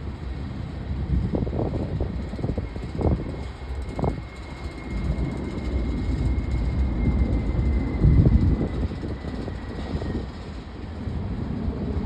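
Freight train cars rolling past: a steady low rumble with irregular low clunks, and a faint thin high squeal held for several seconds through the middle.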